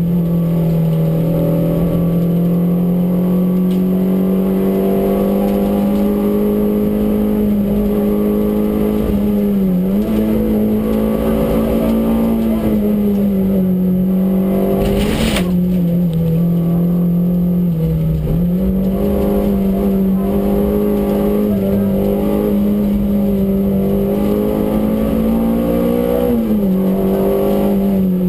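Peugeot 205 Rallye's four-cylinder engine running hard at high revs, heard from inside the cabin during a rally stage. Its pitch dips briefly a few times, and there is one sharp knock about halfway through.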